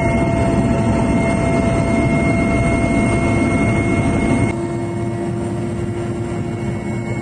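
Loud, steady running noise of a large vehicle's engine with a high whine. About four and a half seconds in it changes abruptly to a quieter, lower running sound.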